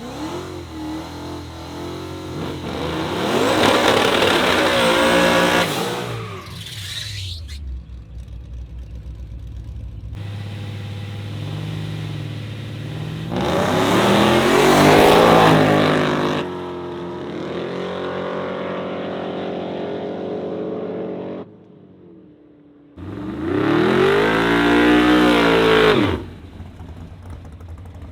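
Car engine revving hard three times, each rev rising and then falling in pitch over about three seconds, with the engine running steadily at lower revs in between.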